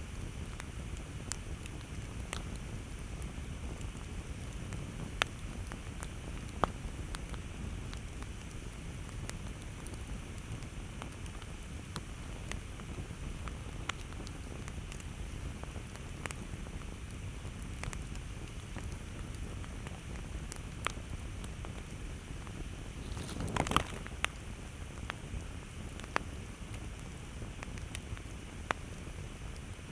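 Campfire burning, with sharp wood crackles and pops at irregular intervals over a steady low rumble of the flames. A short, louder flurry of crackling comes about three-quarters of the way through.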